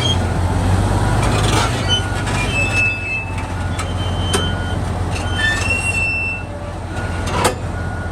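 Komatsu D475A crawler bulldozer's diesel engine running low and steady while its steel tracks squeal and creak in short high-pitched bursts as it moves, with two sharp metallic clanks, one about four and a half seconds in and a louder one near the end.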